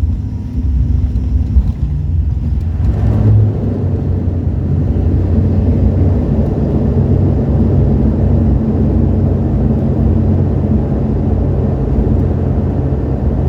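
Airliner landing: a steady low rumble that grows louder and fuller about three seconds in, then holds.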